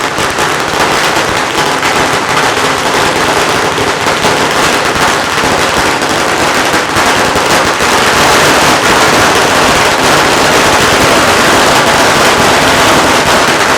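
A long string of firecrackers going off in a dense, unbroken crackle, growing a little louder about halfway through: the firecracker welcome that greets a temple procession.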